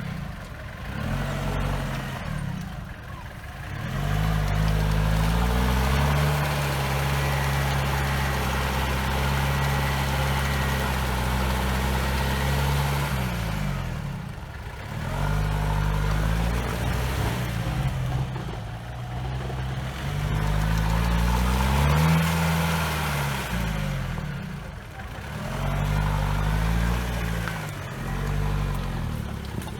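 Off-road 4x4 engine revving hard and easing off again and again as it works through deep mud, over a steady rush of noise.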